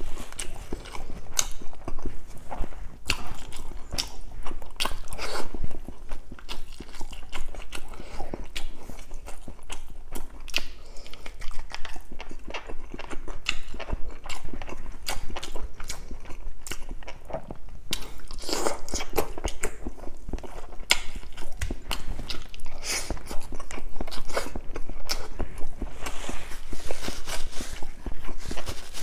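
Close-miked chewing of a mouthful of roasted chicken and rice with the mouth closed. It comes as many irregular mouth clicks and soft crunches, louder in a few stretches past the middle.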